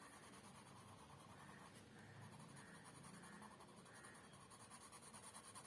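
Faint scratching of a colour pencil being stroked back and forth on paper while shading in colour, in quick regular strokes.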